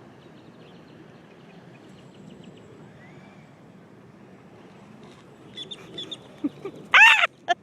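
Birds calling: a few short clucking calls start about five and a half seconds in, then one loud, short call near the end, over low outdoor background noise.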